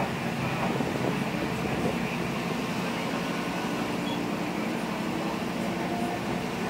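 MRT300 diesel railcar running along the track, heard from inside the cab: a steady engine drone and rolling wheel noise.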